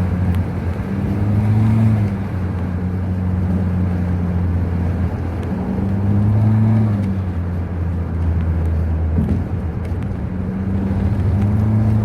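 2012 Acura RDX's 2.3-litre turbocharged four-cylinder running under way, droning through an exhaust with the rear muffler deleted and a Magnaflow glasspack in place of the stock resonator. The drone swells and rises slightly in pitch three times as the throttle comes on and eases off.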